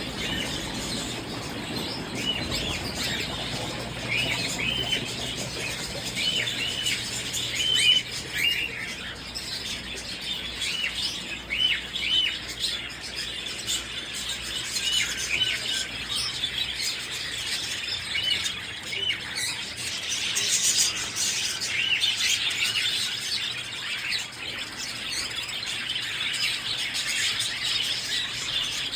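Many small birds chirping continuously, with short, high arched chirps overlapping one another.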